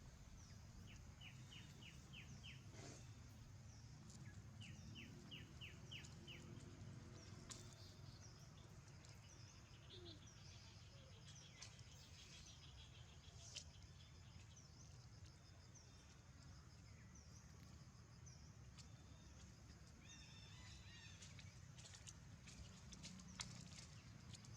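Faint outdoor ambience with a steady low rumble, and a bird giving two quick runs of about five short chirps each in the first few seconds, with scattered faint clicks.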